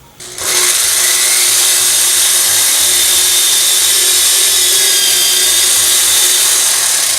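Power drill running steadily at high speed, its bit boring down into a dried-out rubber pin set in the wooden resonator box of a metallophone. It starts about half a second in.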